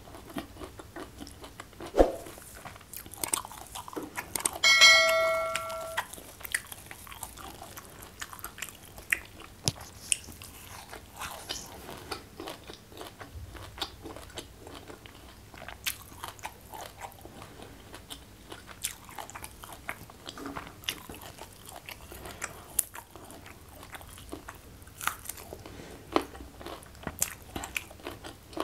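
Close-miked eating: crunching, chewing and small mouth sounds as food is eaten by hand, with many short sharp crunches throughout. About five seconds in, a piece of tableware rings briefly when knocked.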